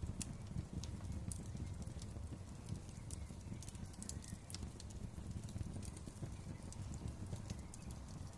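Wood fire crackling: many sharp, irregular pops and snaps over a low, steady rumble.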